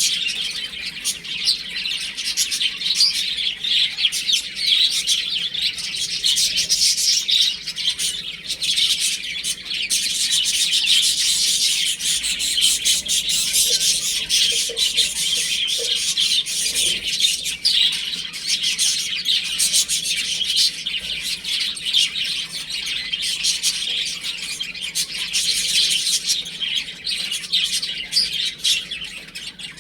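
A group of baby chicks peeping continuously, many high chirps overlapping.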